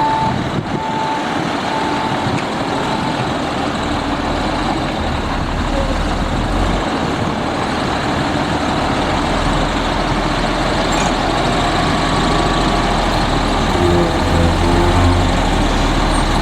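Front-load garbage truck's diesel engine running steadily, its reversing alarm beeping about once a second for the first few seconds before stopping. The engine note grows louder and lower near the end.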